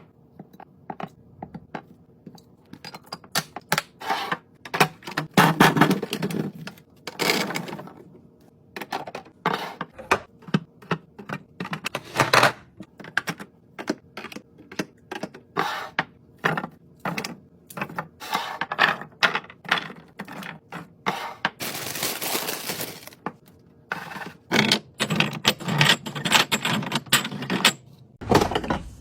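Containers and packaging being handled and set down while a fridge is restocked: a steady run of clicks, taps and thunks, broken by a few longer noisy passes, the loudest lasting over a second about three quarters of the way through.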